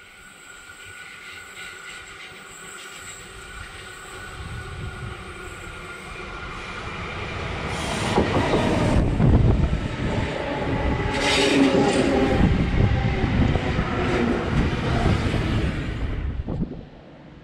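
V set double-deck electric intercity train approaching and running past, growing steadily louder, with wheels rumbling and clattering on the track while it passes. The sound drops away suddenly near the end.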